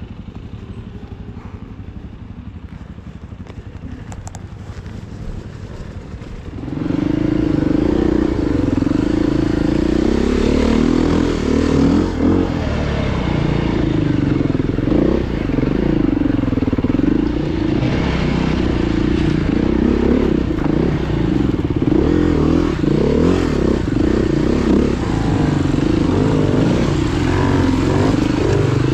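Off-road dirt bike engine ticking over, then about seven seconds in it gets much louder as the bike rides off, the engine pitch rising and falling steadily with the throttle.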